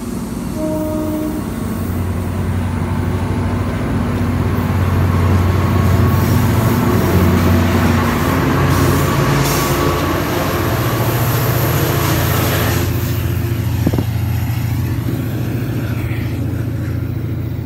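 Commuter rail train pulling out: bi-level passenger coaches roll past, then the diesel locomotive pushing at the rear goes by with a loud, steady engine drone. The sound is loudest midway and fades as the train pulls away. A brief tone sounds about half a second in.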